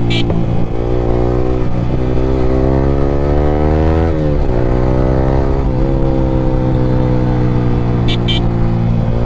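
Yamaha R15 V3's single-cylinder engine through an Akrapovic R9 exhaust, accelerating hard. The pitch climbs for about three seconds, drops at an upshift about four seconds in, then holds and rises again in the next gear.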